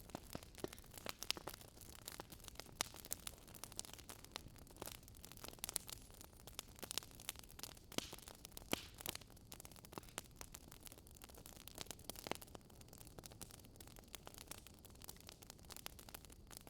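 Wood fire crackling softly: irregular sharp pops and snaps over a faint steady hiss.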